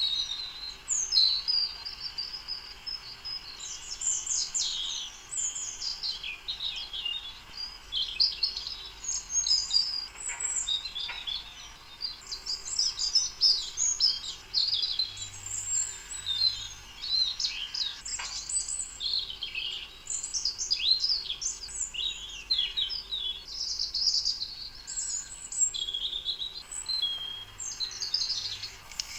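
Many small birds chirping and calling at once: a dense, continuous chorus of short high-pitched chirps and trills.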